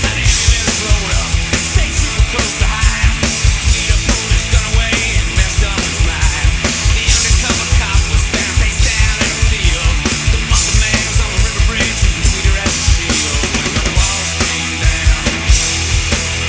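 Punk-rock song with distorted guitars, played with a full acoustic drum kit of fast, dense kick and snare hits and crashing cymbals.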